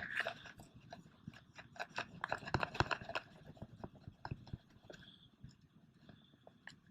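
Digging into wet beach sand for a razor clam: irregular knocks and scrapes of the sand, busiest about two to three seconds in and thinning out after.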